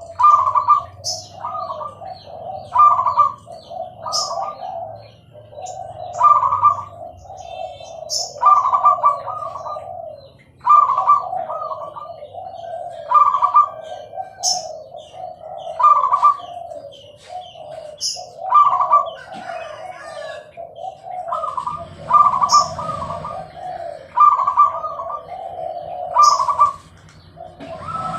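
Zebra dove (perkutut, Bangkok type) cooing over and over: a phrase of quick rolling notes about every two seconds, many of them opened by a short sharp high chirp.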